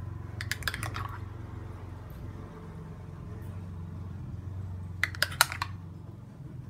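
A metal spoon clicking against a bowl in two quick clusters, about half a second in and again about five seconds in, as cream cheese glaze is scooped out. A low steady hum runs underneath.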